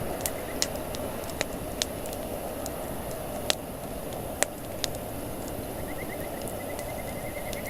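Wood campfire burning: irregular sharp crackles and pops over a steady hiss, with the two loudest pops about three and a half and four and a half seconds in.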